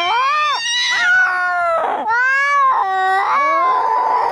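Cats caterwauling in a fight: long, drawn-out yowls that rise and fall, with two voices overlapping at times and hissing about two seconds in and again near the end.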